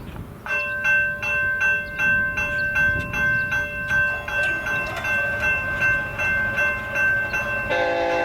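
Railroad grade crossing bell starting up about half a second in and ringing steadily at about two strokes a second as the signals activate for an approaching train. Near the end a Union Pacific locomotive horn starts sounding over the bell.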